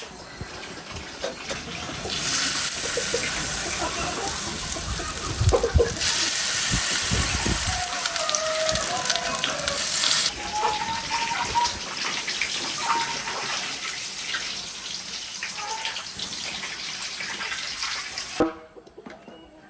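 Steady rush of falling, splashing water that grows louder about two seconds in and cuts off suddenly near the end.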